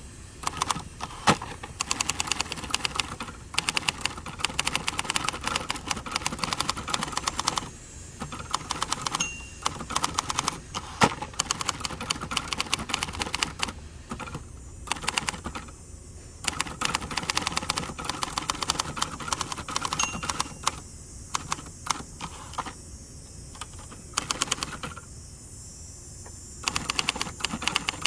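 Typing on a 1967 second-generation Hermes 3000 manual typewriter: quick runs of typebar strikes against its hard platen, broken by short pauses. For so hard a platen it types surprisingly quiet.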